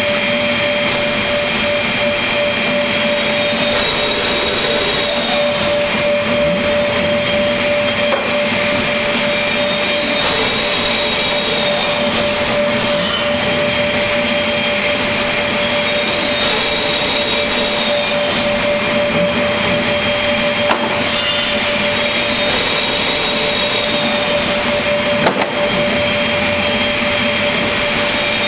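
Automatic MDF board-cutting machine running, a steady mechanical noise with a constant whine under it. A few sharp clicks or knocks come through, the loudest about 25 seconds in.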